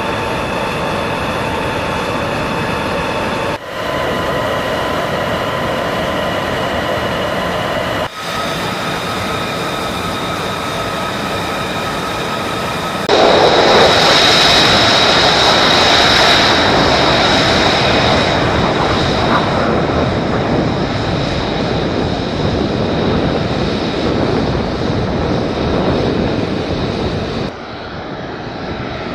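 Jet aircraft engines running loud with a steady high turbine whine over a rushing roar, in several spliced clips whose sound changes abruptly at each cut. The loudest stretch starts about 13 seconds in.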